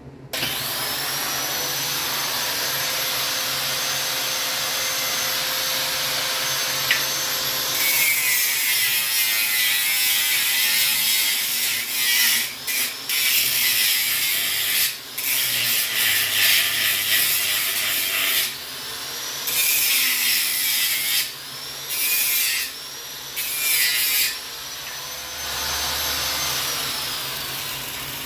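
Electric grinder switching on and spinning up, running free with a steady whine, then grinding metal with a harsher, louder sound from about eight seconds in. It is switched off and on again several times, each restart with a rising whine, and winds down near the end.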